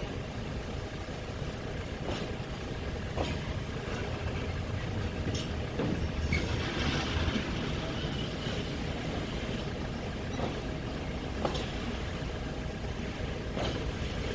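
Train moving slowly on a shunting track: a steady low rumble, with short clicks from the wheels every second or so.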